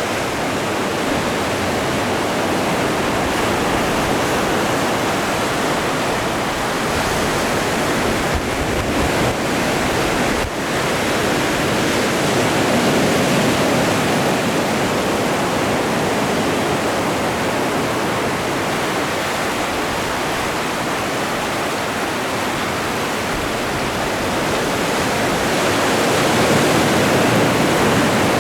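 Atlantic ocean surf: waves breaking and washing in a continuous rush, swelling louder a little before the middle and again near the end.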